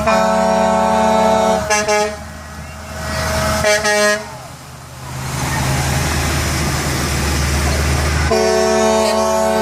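Truck air horns sounding: a long blast, two short toots, then another long blast near the end. Between them a truck's engine and tyres rumble past.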